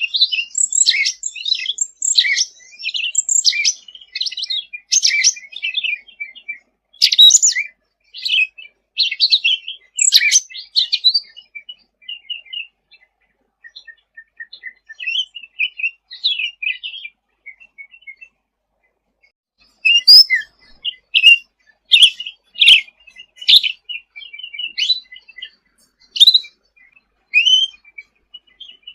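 Cucak ranting (cucak rante) songbird singing: rapid, high chirps and trills packed closely at first, thinning out midway, then resuming with louder, sharper separate notes after a short pause.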